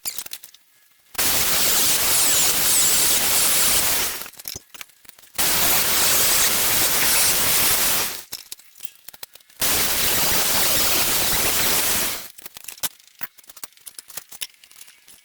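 Grinder grinding steel in three bursts of about three seconds each, a harsh hiss with no clear motor tone, grinding through a knife tang where holes would not drill. Light clicks and taps follow near the end.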